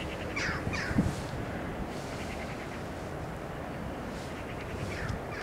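Birds calling: two short, harsh falling calls about half a second in and two more near the end, over a low rumble of wind on the microphone with a thump about a second in. Faint rapid ticking comes and goes in short spells.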